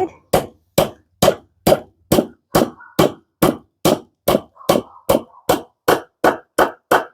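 Brass hammer striking steadily, about two blows a second with a short ring after each, driving a new bush into a shock absorber mount.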